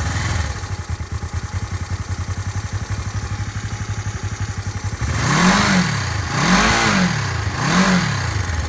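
1976 Honda CB500T's parallel-twin engine idling steadily while warming up from a cold start, choke off. From about five seconds in, the throttle is blipped three times, each rev rising and falling back to idle.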